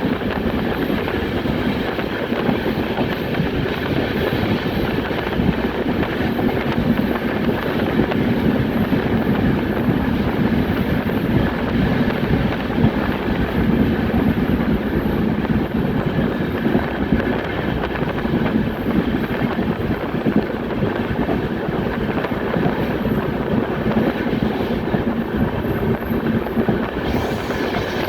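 Indrayani Express passenger train running along the line, heard from on board a coach: a steady rumble of wheels on the rails with no letup.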